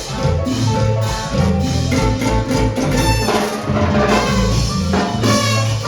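Live salsa band playing an instrumental passage, with a driving bass line, percussion and horns.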